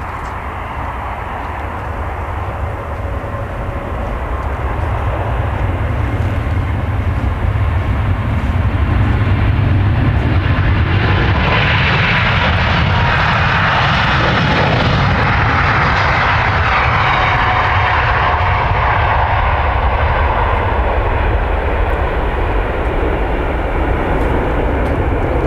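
Jet airliner's engines running loud as the aircraft passes, building over the first eight seconds or so and then holding a steady roar, with a faint whine sliding slowly down later on.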